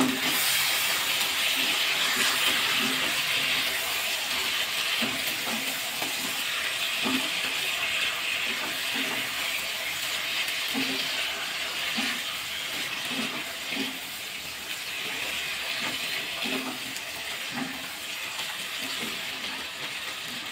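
Chicken pieces in spice paste sizzling steadily in a pan while being stirred and turned with a wooden spatula, with soft knocks of the spatula against the pan every second or so.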